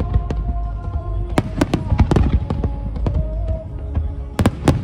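Aerial fireworks bursting in an irregular string of sharp bangs and crackles, with a low rumble beneath and a quick cluster of bangs near the end. Music with held notes plays over the bursts.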